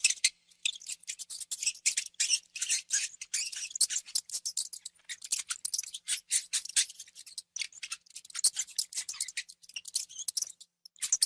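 Mouse sound effect: fast, irregular, high scratching and gnawing clicks, with no squeaks.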